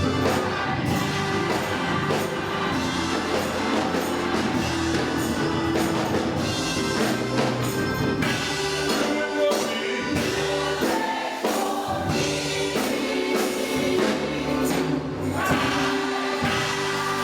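Gospel choir singing with instrumental accompaniment, a steady rhythmic beat under the voices.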